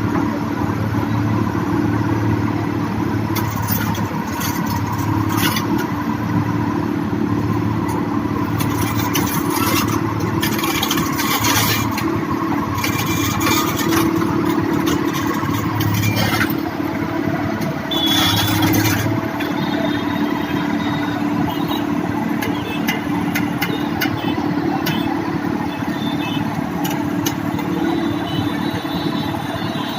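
Diesel engine of a heavy construction machine running steadily, with repeated short bursts of hiss over the first two-thirds or so.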